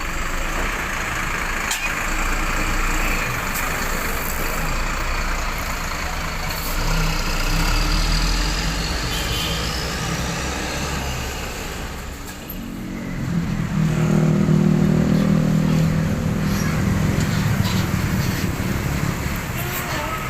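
Bus engines running amid street traffic at a busy roadside bus terminal; about thirteen seconds in a nearby engine grows louder and holds a steady hum.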